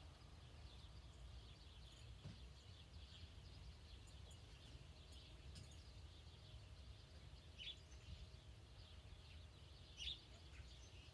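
Near silence: faint outdoor background with a low rumble and scattered small bird chirps, two slightly louder ones near the end.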